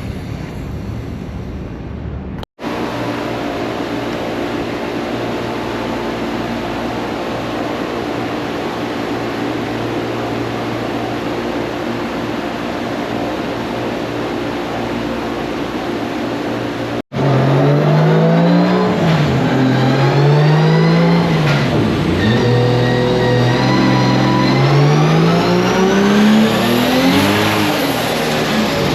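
Turbocharged 2JZ engine of a drift car. For the first half it runs at a steady drone; from a little past halfway the revs climb and drop again and again in repeated pulls. These are the runs on which the owner finds fuel pressure dropping off as soon as the boost comes in.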